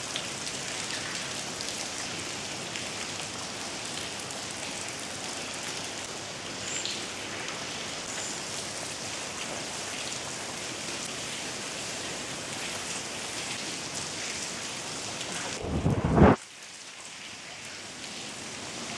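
Steady rain falling and splashing on surfaces. Near the end a brief loud rumble cuts in, after which the rain is quieter.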